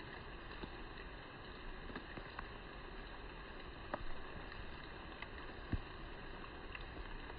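Steady, fairly quiet outdoor background noise, with two faint knocks about four and six seconds in.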